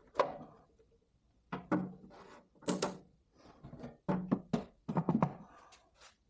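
A series of irregular knocks and thunks, about a dozen over a few seconds, some with a short ringing tail.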